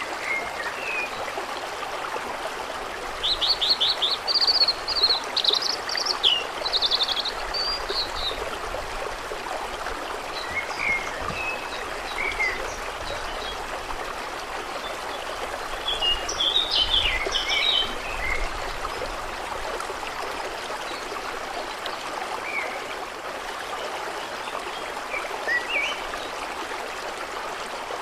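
Steady flowing, trickling water with songbirds singing over it: a run of song from about three to eight seconds in, another around sixteen to eighteen seconds, and scattered single chirps between.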